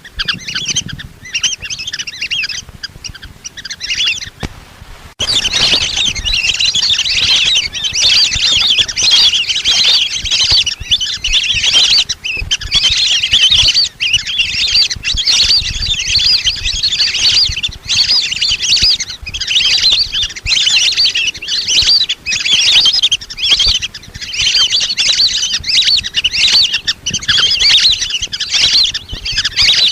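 A flock of lesser whistling ducks calling: dense, overlapping high whistled chatter, with a short break about five seconds in.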